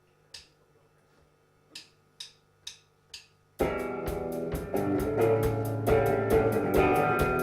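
A drummer's count-in, sticks clicked together: two slow clicks, then four quicker ones about half a second apart. A live rock band then comes in together on the last beat, electric guitar over a drum kit.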